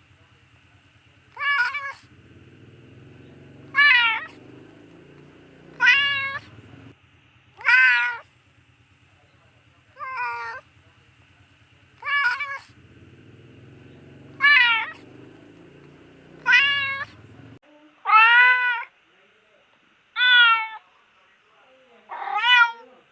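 Domestic cat meowing over and over, about eleven drawn-out meows spaced roughly two seconds apart, each rising and then falling in pitch.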